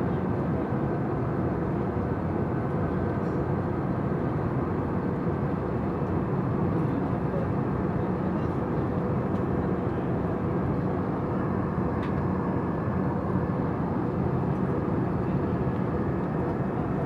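Steady drone of an airliner's cabin in flight, engine and airflow noise holding even throughout, with a faint steady hum through it.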